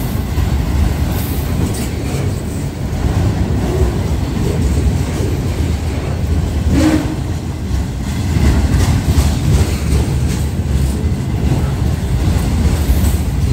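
Freight train of loaded autorack cars rolling past: a steady, loud rumble of steel wheels on rail with a run of wheel clicks over the joints.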